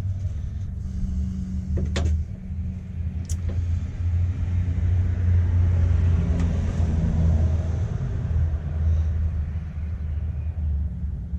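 A steady low rumble throughout, with two short sharp clicks about two and three seconds in.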